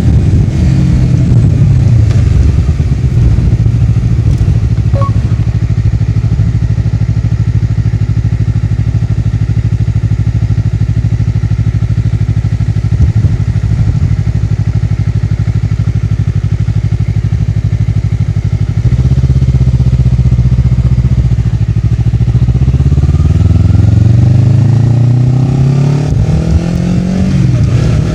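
Honda CBR250RR's parallel-twin engine through a Yoshimura R-11 slip-on exhaust, ridden on the road: the revs fall at the start, then hold steady for a long stretch, and a little past two-thirds through the bike accelerates with rising revs and a gear change near the end.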